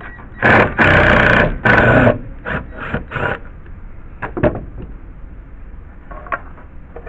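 Cordless drill/driver backing a screw out of a deck board, run in short bursts: three longer runs, then two brief ones, followed by a few light knocks.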